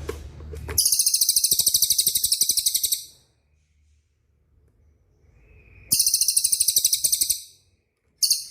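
A songbird's rapid, high-pitched rolling trill, very fast pulsing, sung in two runs of about two seconds and one and a half seconds, with a brief third burst near the end: a fast 'roll' phrase used as tutor song for training white-rumped shamas.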